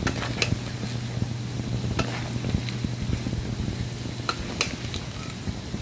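Flour-coated lobsters frying in hot oil in a wok, sizzling steadily with fine crackles, and a few sharp taps of a metal spatula against the pan.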